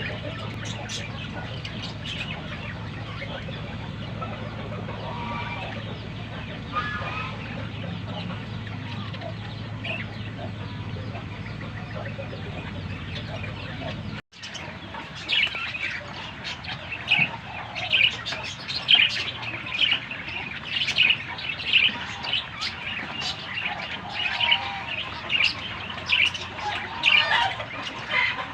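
Birds calling with short, repeated chirps and clucks. A low steady hum and only a few scattered calls come first. After a cut about halfway through, the calls come louder and much more often, several a second.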